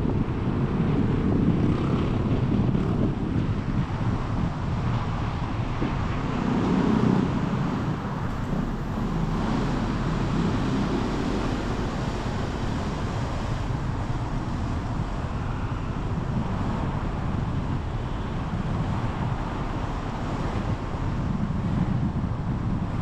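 Steady road and engine noise of a car on the move, with wind buffeting the microphone.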